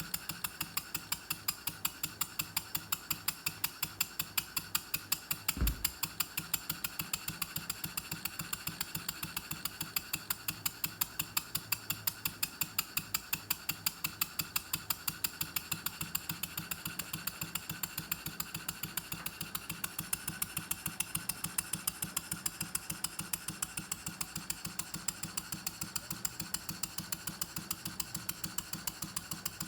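Model Norden mill steam engine running steadily, its single cylinder and valve gear giving an even, rapid ticking of about four beats a second. A single low thump comes about six seconds in.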